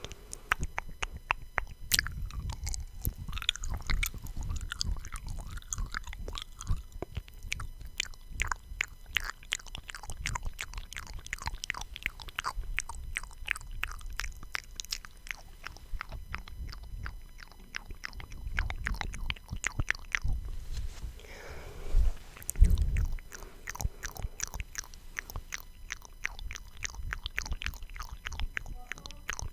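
ASMR mouth sounds: rapid, continuous wet clicks and smacks, with a louder soft burst about two-thirds of the way through.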